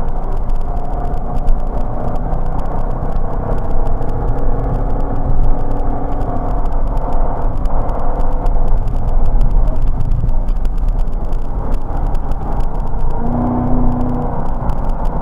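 Chevrolet Corvette C6's V8 engine running hard at track speed, heard from the onboard camera, with its note rising and falling through the corners over steady road and wind noise.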